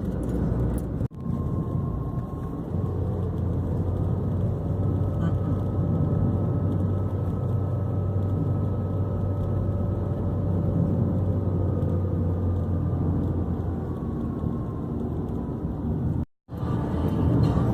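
Car driving on the road, heard from inside the cabin: steady road and engine noise with a low hum. The sound drops out briefly twice, about a second in and near the end.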